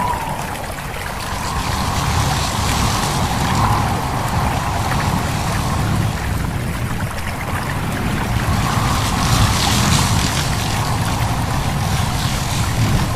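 Wind blowing with a low rumble and a soft whistle that swells and fades, over leaves rustling and a stream babbling.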